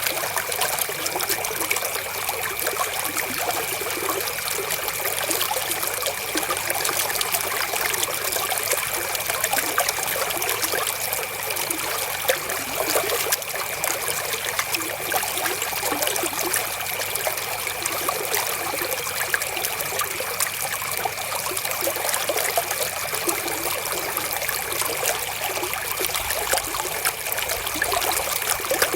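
Flowing river water trickling steadily, with a faint steady high tone running under it.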